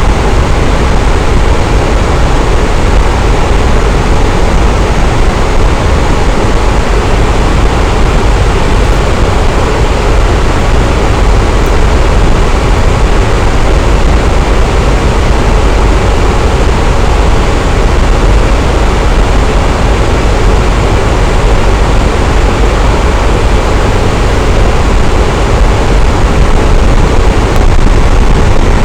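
Electric fan running steadily: a constant, loud rushing of air with a deep low rumble and no change in speed.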